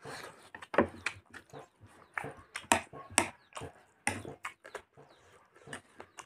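Close-miked eating: wet chewing and lip-smacking on a mouthful of rice and chicken, an irregular run of smacks several times a second, with light spoon clicks against a steel plate.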